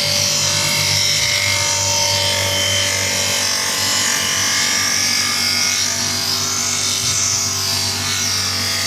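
Electric grinder running steadily while sharpening a steel blade, its motor hum under a high grinding hiss that slowly rises and falls as the blade is worked against the wheel.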